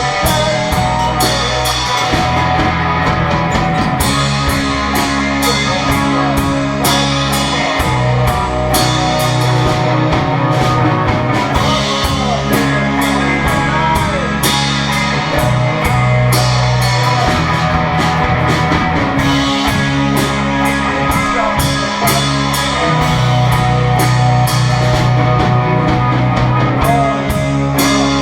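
Live indie rock band playing: electric guitars, bass guitar holding sustained low notes that change every few seconds, and a drum kit with evenly repeating cymbal strokes.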